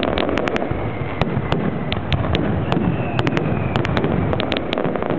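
Fireworks display: a rapid, irregular barrage of bangs and crackling pops from bursting aerial shells, several a second, over a continuous low rumble.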